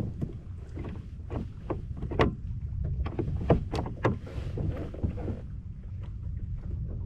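Irregular knocks and light water slaps on a fishing kayak, over a low wind rumble on the microphone.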